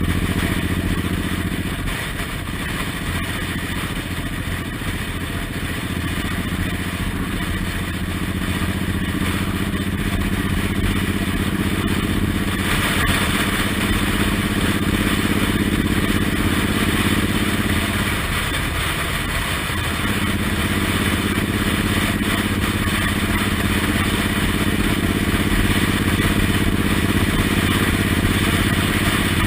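Suzuki Intruder M1800R's V-twin engine running under way on the road, its note shifting a few times and dipping briefly about two-thirds of the way through, over a steady rush of wind.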